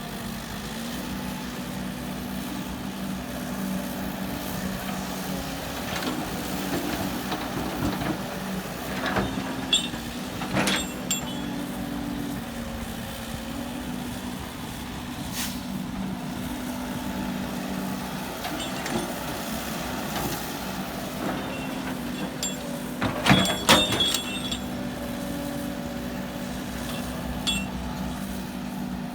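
Heavy diesel engine running steadily, with a few brief sharp clanks about ten seconds in and louder ones later on.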